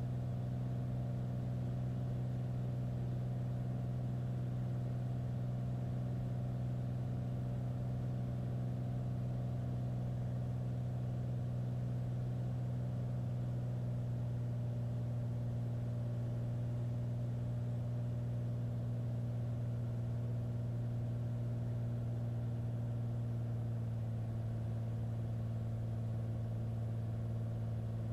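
Light aircraft's piston engine and propeller droning steadily, heard inside the cockpit on final approach. The pitch drops slightly a few seconds before the end.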